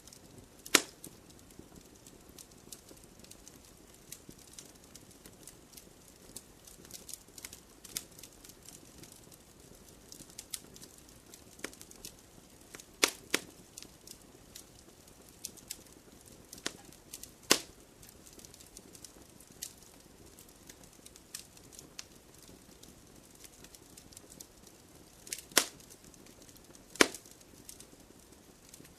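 Wood campfire crackling: a steady scatter of small snaps with a few much louder sharp pops, one about a second in, two in the middle and two close together near the end.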